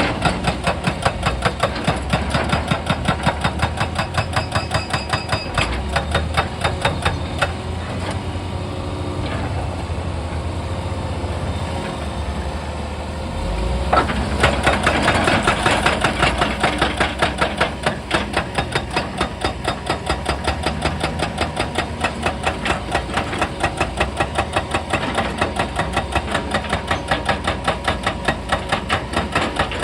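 Excavator-mounted hydraulic rock breaker hammering stone in rapid, even blows over the running excavator engine. The hammering eases for a few seconds in the middle, then comes back louder about 14 seconds in.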